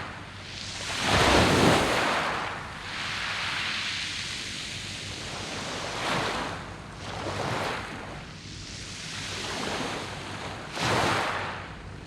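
Sea waves breaking and washing over a beach of smooth round pebbles (mongdol). The hiss of surf swells and falls every few seconds, loudest about a second and a half in and again near the end.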